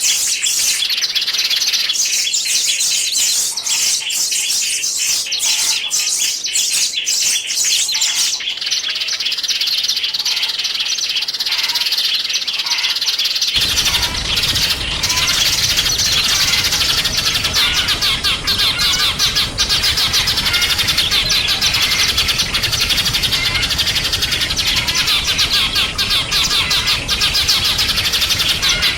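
Small songbirds chirping and twittering in a dense, rapid stream of high notes. About halfway through, the sound cuts to another recording with a noisier background, and the chirping carries on.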